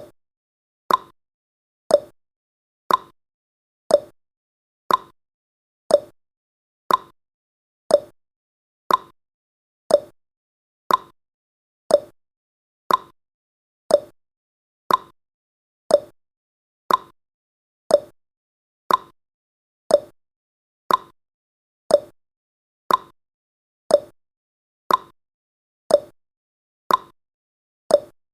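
Clock tick-tock sound effect marking each second of a countdown timer: one sharp tick a second, alternating between a higher and a lower pitch.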